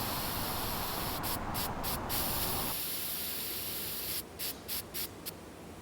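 Airbrush spraying paint onto a handmade lure: a steady hiss that cuts in and out in short bursts, several times in quick succession near the end.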